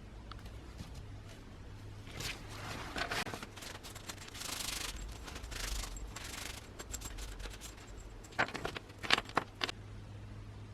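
Scraping and rubbing by hand over several seconds, then a few sharp clicks.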